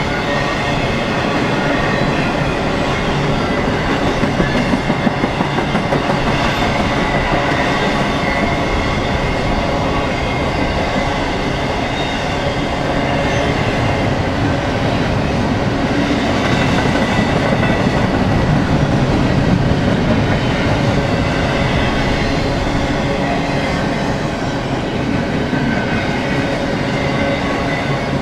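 BNSF freight train rolling past, a steady noise of wheels running on the rails.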